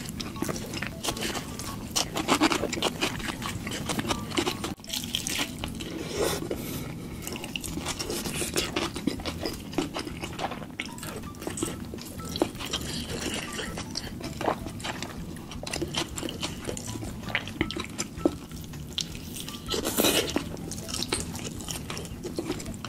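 Close-miked eating sounds: wet chewing and lip-smacking with many small clicks and crunches as sauce-coated chicken is eaten, going on steadily without pause.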